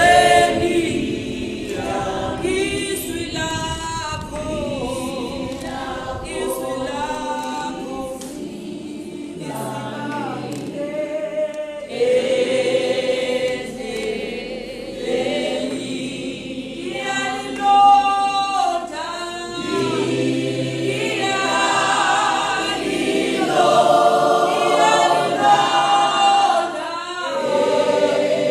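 A choir of mixed voices singing a hymn in Zulu, with sustained sung lines throughout.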